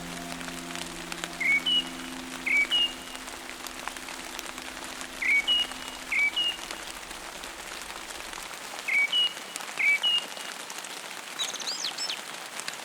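Steady rain with a songbird calling over it: a quick pair of rising chirps, given three times at even intervals, then a single higher call near the end. A low held tone underneath fades out about halfway through.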